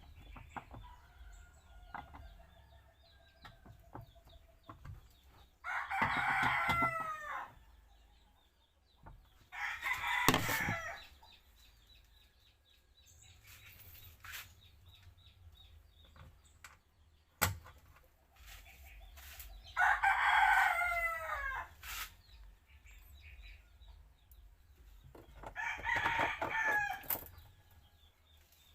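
Rooster crowing three times, each crow about one and a half to two seconds long. A brief loud noise falls between the first two crows, and a sharp click comes later.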